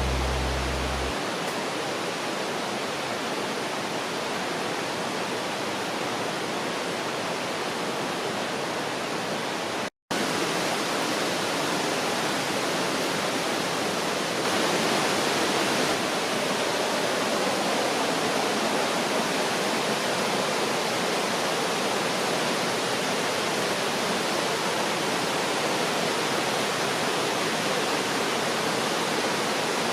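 Steady rush of a mountain stream's flowing water, with a momentary cut-out about ten seconds in.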